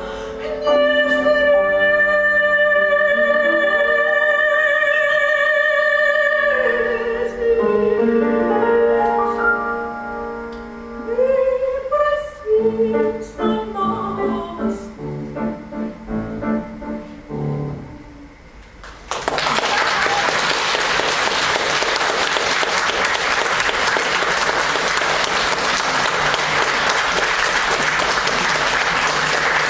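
A woman's voice holds the final note of a Russian romance with wide vibrato over piano, then the piano plays a closing passage that thins out and dies away. About two-thirds of the way through, an audience breaks into steady applause.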